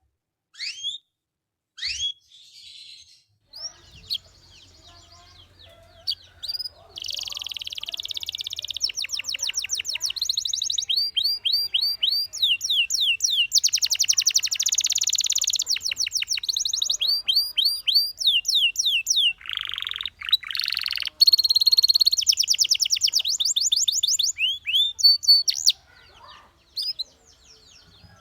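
Domestic canary singing: fast trills and rolls of repeated sweeping notes, in phrases with short pauses between them.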